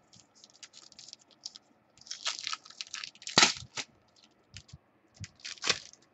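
Trading cards and their plastic packaging being handled, with irregular crinkling and clicking. A sharper snap comes about three and a half seconds in, and another near the end.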